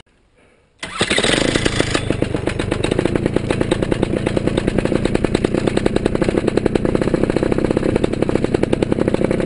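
Paramotor engine starting about a second in, with a brief louder burst, then idling steadily with a fast, even pulse.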